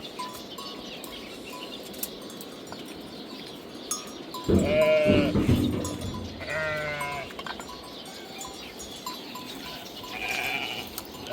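Sheep or goats bleating: a loud bleat about four and a half seconds in, a second one a moment later, and a fainter one near the end.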